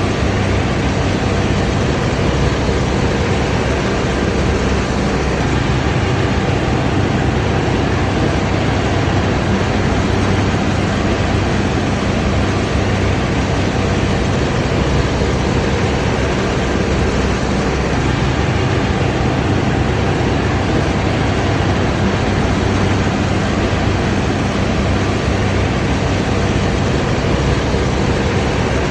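Combine harvester running steadily under load, a constant heavy diesel engine and machinery drone.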